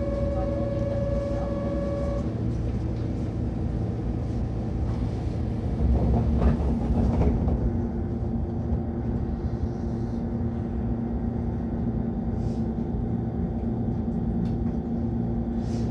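Onboard sound of a Keihan 10000 series electric commuter train standing at a station and getting under way, with a steady low rumble throughout. A steady electronic tone sounds for about two seconds at the start, and there is a louder rumbling surge around six to seven seconds in, followed by a steady hum.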